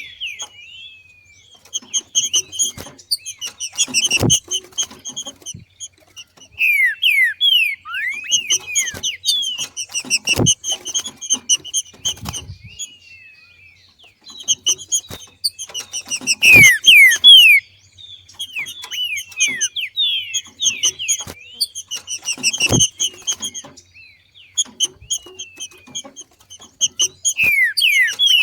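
Green-winged saltator (trinca-ferro) giving its 'macheado' call: bouts of rapid chirps and quick downward-sliding whistled notes, repeated with short pauses between them. A few sharp knocks are heard now and then.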